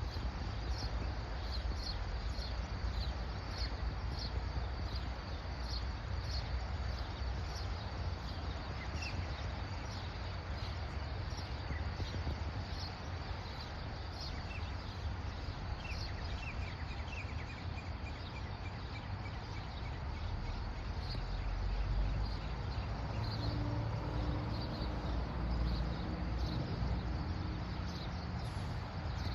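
Outdoor morning ambience: a steady low rumble under a high, thin chirp that repeats about twice a second, with a short run of bird-like chirps around the middle.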